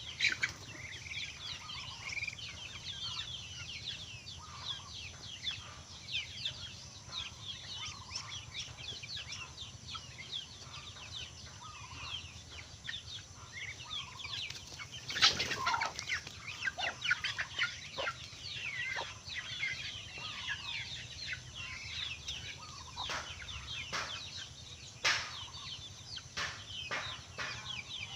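A flock of poultry peeping and clucking, with many short, high calls overlapping. A few sharp knocks stand out, the loudest about halfway through.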